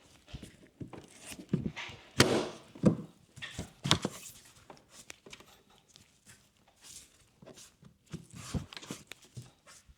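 Irregular knocks, clicks and rustling of hands handling tools and motorcycle parts, with the loudest knocks a little over two seconds in and about four seconds in.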